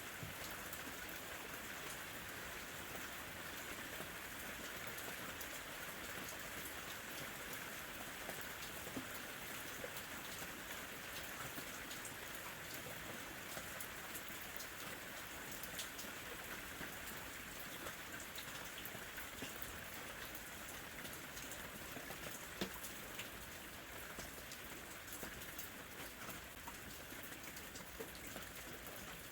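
Steady summer rain falling on a surface, an even hiss with scattered individual drops ticking through it.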